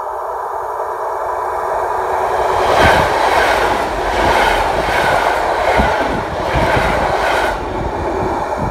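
Passenger train approaching and passing close by at speed: a steady whine that grows louder, then a loud rush with wheels clacking over rail joints in a regular rhythm as the cars go past, easing off near the end.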